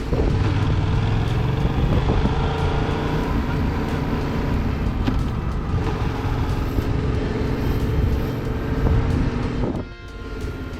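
Yamaha MT-07's parallel-twin engine running at a steady pace under riding, with road and wind noise. Near the end the engine sound drops away briefly, then picks up again.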